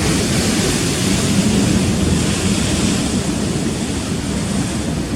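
Rough sea surf washing over rocks: a steady, loud rush of noise with no distinct breaks.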